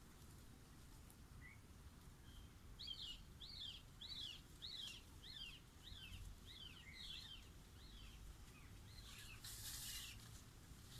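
A bird calling faintly: a run of about nine arched, up-and-down whistled notes, roughly two a second, then a brief hissing rustle near the end.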